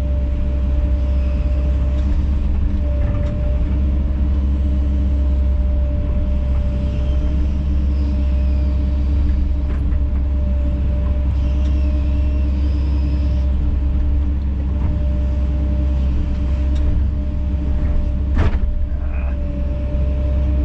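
Kobelco SK210 excavator's diesel engine running steadily, with faint high whines coming and going. A single sharp knock sounds near the end.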